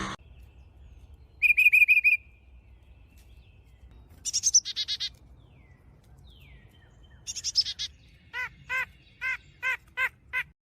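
A bird calling: three short, rapid chattering trills, then a run of about seven separate, evenly spaced notes near the end.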